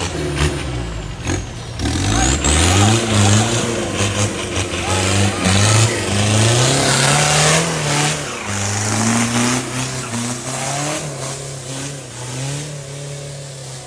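Mitsubishi Strada off-road pickup's engine revving up and down repeatedly under hard effort, with scattered knocks and clatter over it.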